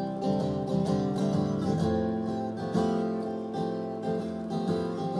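Acoustic guitar strumming chords, with no voice over it.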